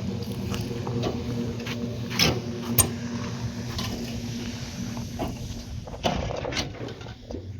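A machine running with a steady hum, with scattered sharp clicks and knocks over it; the hum fades out about six seconds in.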